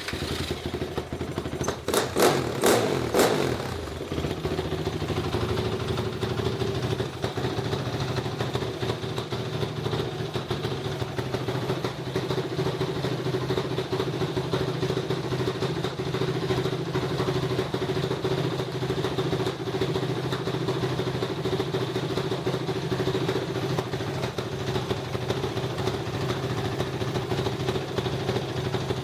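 Motorcycle engine running steadily at idle after starting. A few loud, sharp knocks sound about two to three seconds in.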